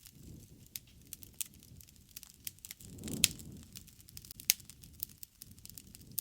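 Wood campfire crackling, with irregular sharp pops over a low rush of flame. The flame noise swells about three seconds in with the loudest pop, and another sharp pop comes about a second later.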